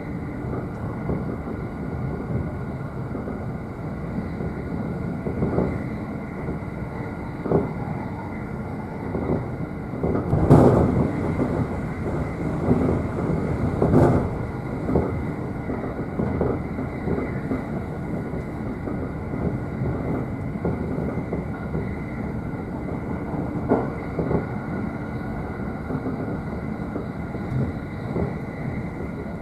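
Running noise of a JR East E531 series electric train heard from the upper deck of a double-decker car: a steady rumble with a few knocks of the wheels passing over rail joints, the loudest about ten and fourteen seconds in.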